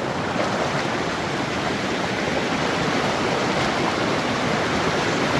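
Steady rush of river water, a small waterfall pouring.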